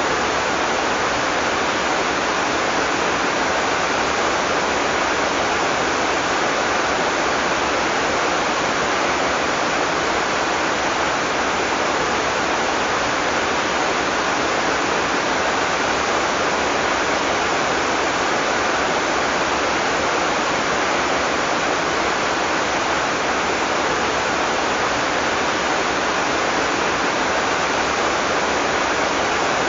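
Heavy tropical rain falling steadily, an even dense hiss with no thunder and no separate drops standing out.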